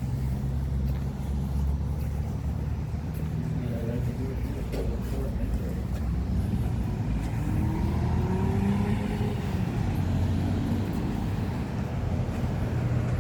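Motor-vehicle traffic: a steady low engine rumble, with one vehicle's engine note rising and then falling about halfway through as it accelerates past.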